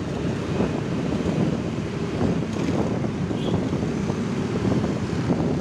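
Steady road traffic noise, engines and tyres in a continuous rumble, with wind buffeting the microphone.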